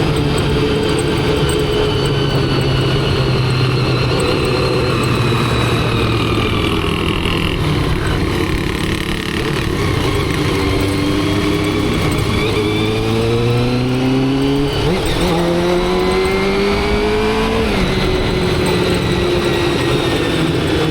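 Motorcycle engine heard from the rider's seat, cruising at a steady pitch, then accelerating: the engine note rises twice and drops sharply at each upshift, about 15 and 18 seconds in, before settling again.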